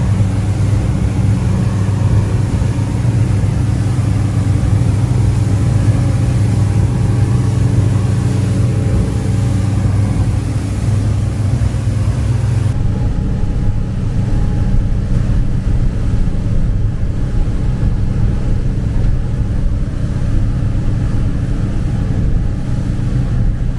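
Motorboat engine running steadily underway, a low drone with a rushing hiss of wind and water over it; the hiss drops away about halfway through.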